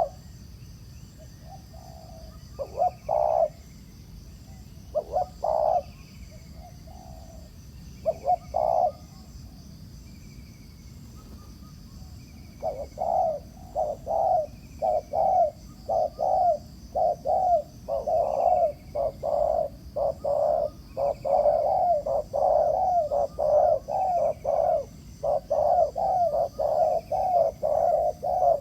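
Spotted doves cooing: a few scattered groups of low coos, then from about twelve seconds in a long, fast, unbroken run of coos. This is the bowing coo that dove trappers listen for in a decoy and a challenging wild bird.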